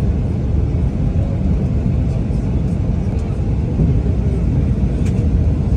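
Steady low rumble of a jet airliner's engines and rushing air, heard from inside the cabin on the approach to landing.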